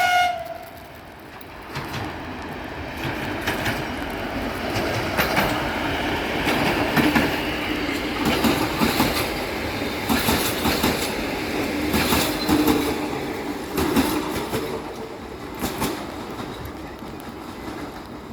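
Electric multiple-unit passenger train arriving: a brief tone right at the start, then wheels clattering over rail joints with some squeal as it rolls in. It grows louder through the middle and eases off near the end.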